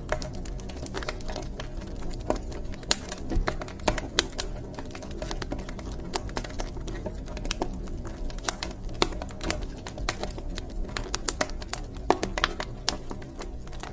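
Wood fire in a fireplace crackling, with irregular sharp pops and snaps of varying loudness over a low steady rumble.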